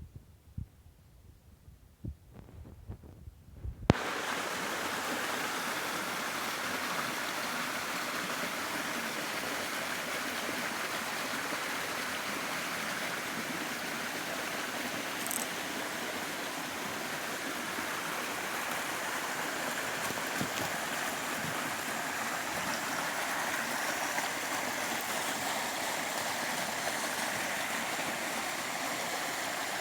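Running water of a stream, a steady rushing that starts abruptly about four seconds in with a sharp click. Before that there are a few seconds of near-quiet with faint low thumps.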